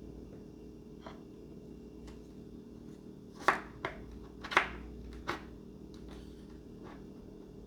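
A few sharp clicks and knocks from small parts being handled, two of them loud, about a second apart near the middle, over a steady low hum.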